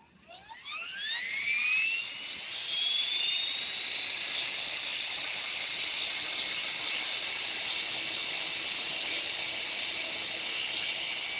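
Belt CP V2 electric RC helicopter spooling up: a motor and rotor whine rising in pitch over about three seconds, then holding as a steady high whine at flying speed.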